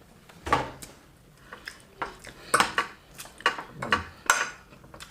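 Eating utensils clinking and scraping against dishes during a meal: a run of about a dozen short, sharp clinks at irregular intervals, the loudest about four seconds in.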